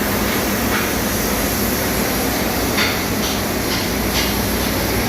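Steady, loud machinery drone with a low hum, with a run of short, sharp metallic knocks about twice a second from a little past the middle.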